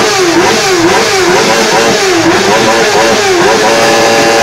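Sport motorcycle engine revved in quick blips, about two a second, then held at steady high revs near the end.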